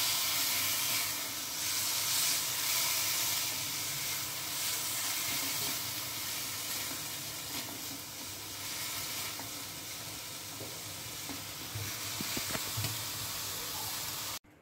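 Chopped pineapple frying in ghee with semolina and dry fruits in a kadai, sizzling steadily while a spatula stirs and scrapes through it. The sizzle grows gradually quieter.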